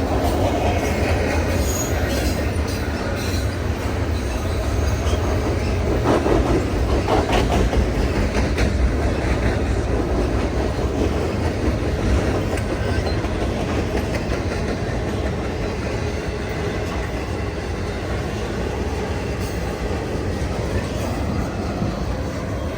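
Freight train rolling past, cars rumbling with wheels clacking over rail joints and some wheel squeal, with a run of sharper clacks a quarter of the way through.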